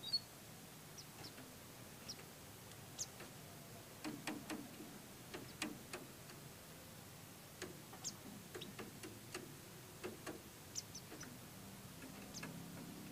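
Irregular faint ticks and clicks with a few short, high cheeps from pleci (white-eye birds) in a breeding cage.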